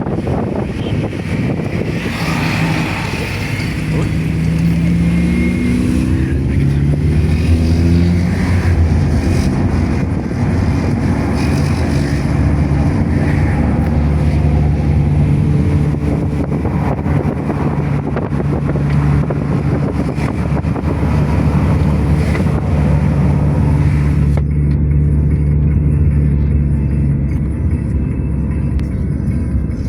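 Sports car engine heard from inside the cabin while driving on the highway. The engine note climbs in steps for several seconds, then holds a steady drone at cruising speed. Near the end the higher road and wind hiss drops away abruptly.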